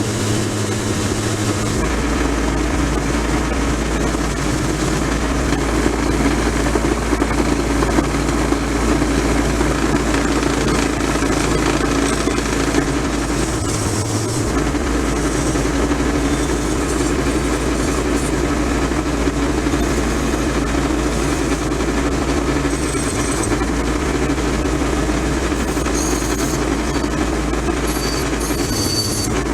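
A machine running steadily with a dense rushing noise over a constant low hum; the hum drops out briefly about halfway through.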